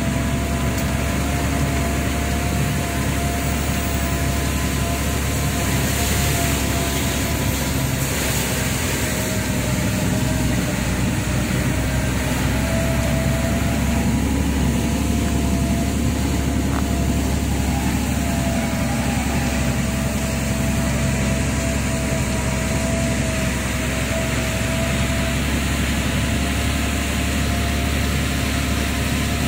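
Lorry engine running steadily on a ghat road climb, an even hum with a thin steady whine over it.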